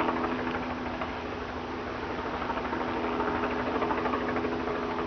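Helicopter flying nearby: a steady, rapid rotor chop over a constant engine hum.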